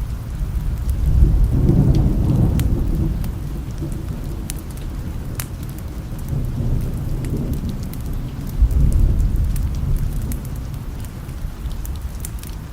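Steady rain with low rolling thunder that swells about a second in and again near nine seconds, with scattered sharp clicks over it.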